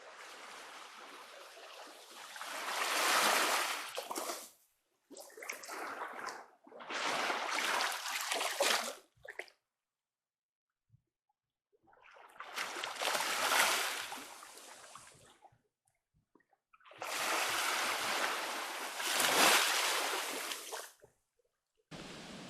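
Sea water washing and splashing at the shore, each wash swelling up and falling back, heard in five short separate stretches with dead silence between them.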